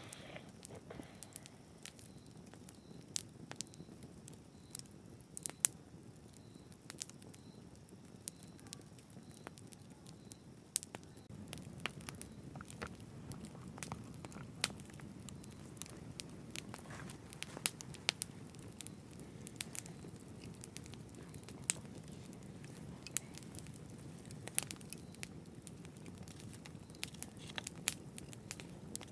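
Wood fire burning: irregular sharp crackles and pops over a steady low rumble of the flames, which grows slightly fuller about eleven seconds in.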